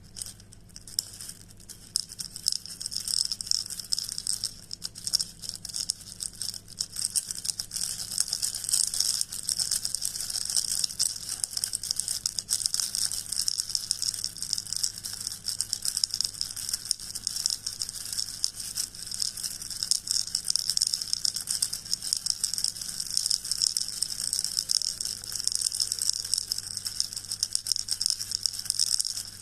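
Continuous soft, high-pitched rustling made of many fine crackles, starting about a second in.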